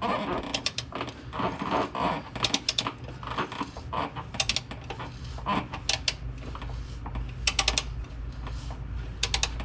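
Hand ratchet wrench clicking in short runs every second or two as an exhaust downpipe bolt, soaked in penetrating oil, is backed out by hand: the bolt has broken loose and is turning.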